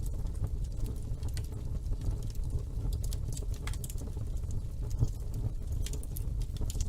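Wood fire burning in a fireplace: a steady low rumble of flames with irregular sharp crackles and pops, one louder pop about five seconds in.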